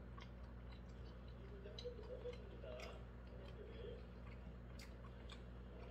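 Faint scattered clicks and smacks of a person chewing pan-fried dumplings, over a steady low hum and faint, muffled voices from a television.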